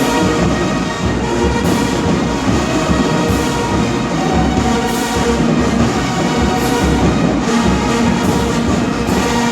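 Brass band music with drums: horns holding loud sustained chords over a steady beat, with sharp strikes about every second and a half.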